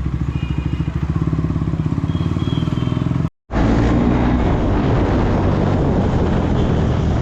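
KTM Duke 390's single-cylinder engine idling with a steady, even beat. After a brief cut about three seconds in, it runs on the move, rougher and mixed with wind noise on the microphone.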